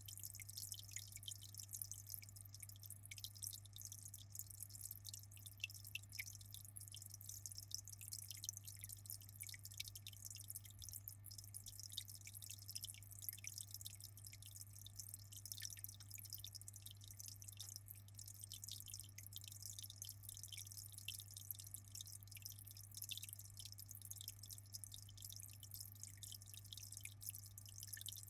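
Aquarium water trickling and fizzing steadily: a dense patter of tiny splashes and drips, over a steady low hum.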